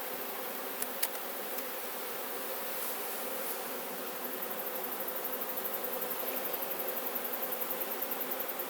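Steady hum of many honeybees flying around an opened hive, the air full of bees looking for honey to rob. A couple of faint clicks come about a second in, and a fast, faint ticking joins the buzz in the second half.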